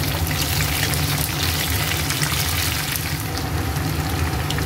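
Pork belly, onion and green capsicum sizzling in hot oil in a frying pan, stirred with a wooden spatula. The sizzle is steady and dotted with small crackles.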